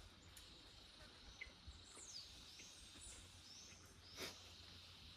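Faint bird calls: a few falling and rising whistles about two to three and a half seconds in, over a steady high background hiss. A short knock about four seconds in.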